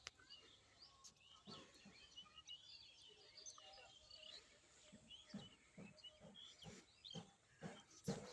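Faint chorus of small birds chirping, many short overlapping calls, with soft low thuds or rustles coming more often in the second half.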